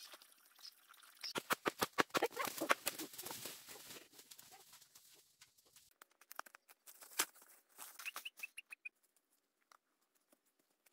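A dense run of sharp clicks and crackles for a few seconds, then a bird chirping about five short notes, each a little lower than the last.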